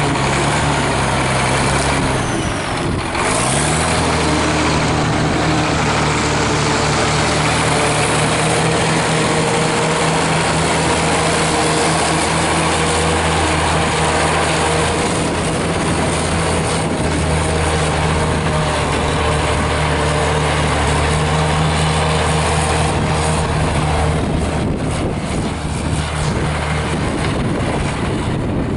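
Truck engine running steadily, its pitch dipping briefly and coming back up about three seconds in.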